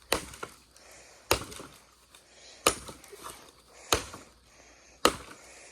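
Axe chopping a branch, five sharp blows about 1.3 s apart, cutting a V into the wood.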